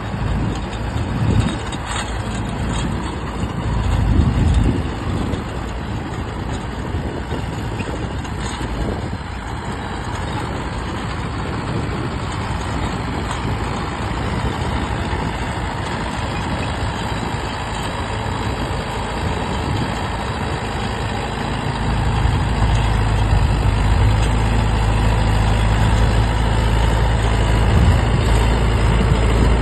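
Tractor engine running steadily, growing louder and heavier about 22 seconds in as it is worked harder or comes closer.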